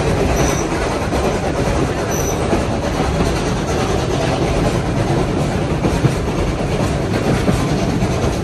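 Steam-hauled heritage train's carriages running along the track: a steady rumble with wheel clatter on the rails.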